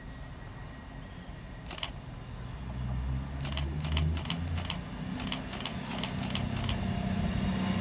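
CrossCountry Class 221 Super Voyager diesel multiple unit approaching, its underfloor diesel engines making a low drone that grows louder, with a few sharp clicks.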